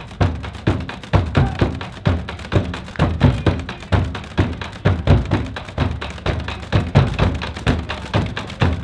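Drums playing a steady, driving beat: heavy bass-drum strokes several times a second with quicker, lighter drum strokes between them.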